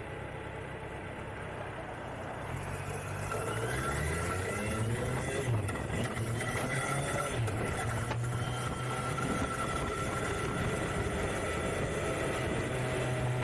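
Kawasaki Z900 inline-four engine pulling away, its pitch climbing in steps as it shifts up through the gears, then running at a fairly steady speed.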